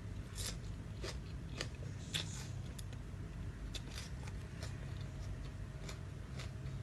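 Close-up chewing of crunchy food, crispy squid in a spicy noodle salad, heard as a series of sharp, irregular crisp clicks.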